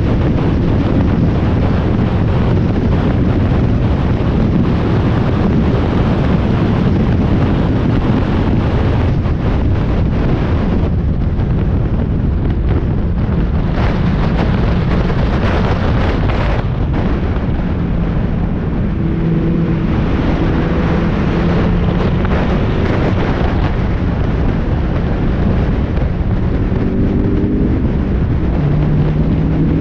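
Spec Miata's four-cylinder engine running under way, heard through heavy wind buffeting on the in-car microphone, with the engine's pitch shifting now and then.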